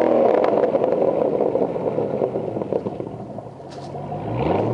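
LS3 6.2-litre V8 of an HSV VE Clubsport, breathing through a 316 stainless-steel cat-back exhaust, being revved: the revs peak at the start and fall back toward idle, then the engine is blipped again near the end.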